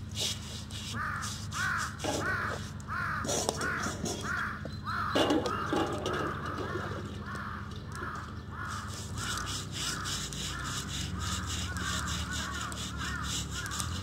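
A bird calling over and over, a short rising-and-falling call repeated about one and a half times a second. A few short rough noises of the work close by come through, the loudest about five seconds in.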